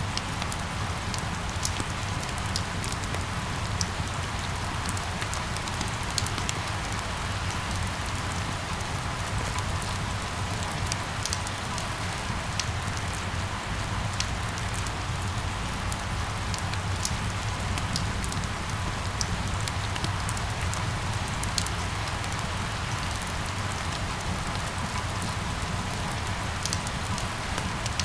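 Steady rain falling, a continuous hiss sprinkled with many small, sharp drop ticks, over a low steady rumble.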